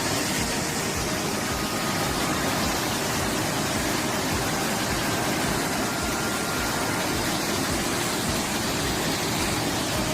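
Floodwater rushing, a steady noise without rhythm or pitch.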